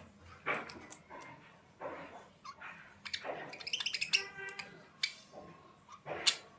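An animal's short, pitched calls, repeated in quick bursts, the loudest a sharp cry near the end.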